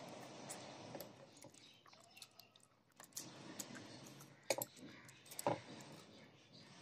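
Close-miked eating by hand: a person chewing a mouthful of rice and fish curry, with scattered wet mouth clicks and a few sharper smacks, and fingers working rice on a plate.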